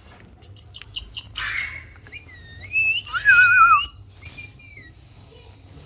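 Pet parrot whistling: a string of short gliding whistles and chirps with a few clicks, the loudest a wavering whistle about three seconds in.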